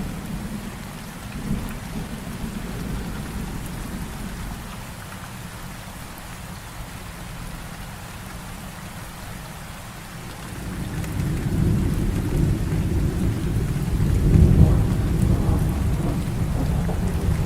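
Heavy rain falling steadily in a thunderstorm. A short rumble of thunder comes about a second and a half in. Then a long, deep roll of thunder builds from about two-thirds of the way through, is loudest a few seconds later and keeps rumbling to the end.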